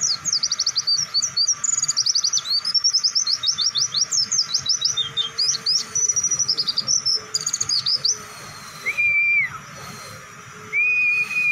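White-eye (pleci) singing a long, rapid twittering song of quick high sweeping notes for about eight seconds, then two long flat whistled notes, the second held longer.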